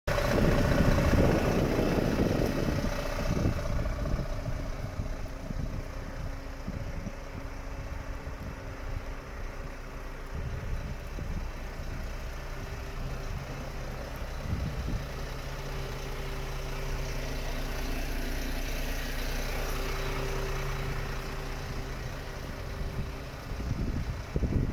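Renault D 270 truck's diesel engine running, louder for the first two or three seconds, then settling into a steady idle.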